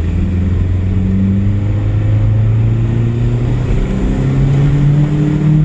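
Old pickup truck's engine running, its pitch climbing from about four seconds in as it revs up and pulls away.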